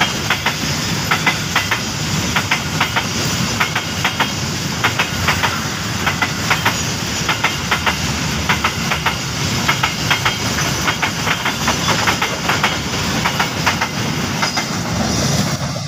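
Empty flat wagons of a freight train rolling past, a steady rumble with groups of sharp clicks as the wheels run over the rail joints.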